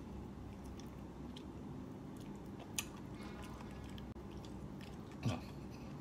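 Close-up mouth sounds of a person chewing and gnawing fried duck meat and soft cartilage off the bone: small wet clicks and light crunches. A sharper click comes about three seconds in and a short low thud near the end.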